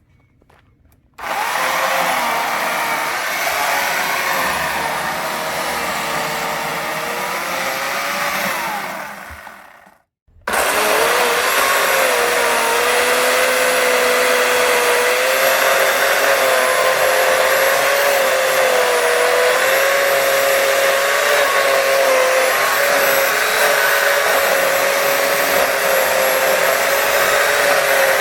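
A motor-driven tool running steadily at high speed with a high, slightly wavering whine. It cuts out about ten seconds in and comes straight back on.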